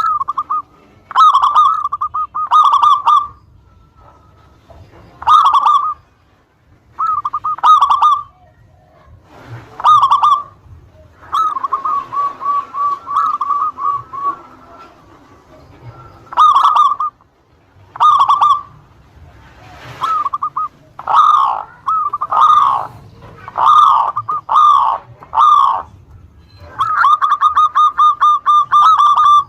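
Zebra dove (local perkutut) cooing in a series of short, repeated rolling coo phrases. It gives a long, fast rattling trill about eleven seconds in and another near the end.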